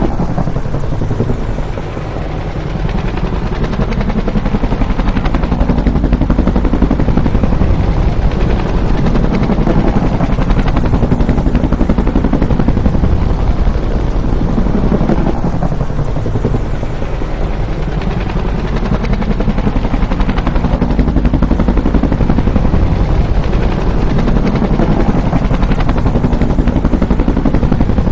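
Bell UH-1 "Huey" helicopter flying by: the loud, rapid thudding of its two-bladed main rotor over its turbine engine. The sound dips briefly about two seconds in, then swells and eases several times.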